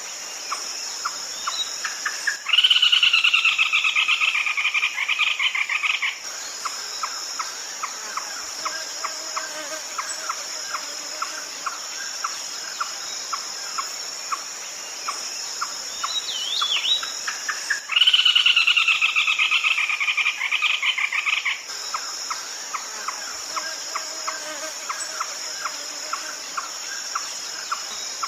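Red-legged crake calling: two loud, rapid trilling bursts about three and a half seconds long, slightly falling in pitch, a couple of seconds in and again about eighteen seconds in. Between them a steady high insect drone and a regular ticking about three times a second continue.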